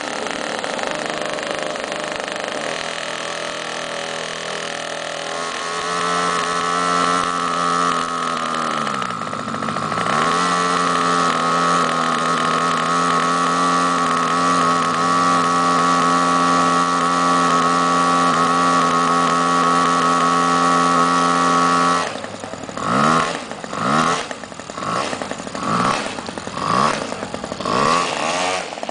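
Small two-stroke 26cc brushcutter engine powering an RC catamaran, running at high speed; its pitch dips briefly and recovers, then holds steady and high. Near the end it is revved up and down in several short bursts.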